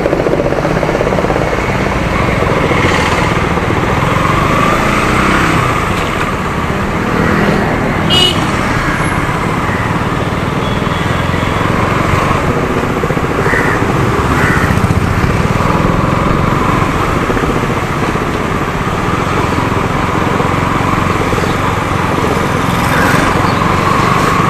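Motorcycle engine running steadily while riding along a road, with road noise, and a brief sharp sound about eight seconds in.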